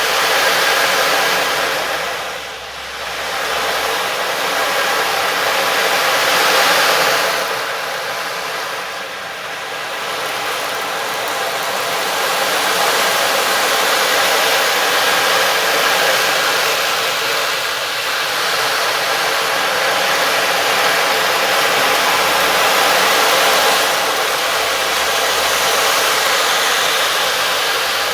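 A loud, steady rushing hiss with little bass, dipping briefly twice within the first ten seconds and then holding even.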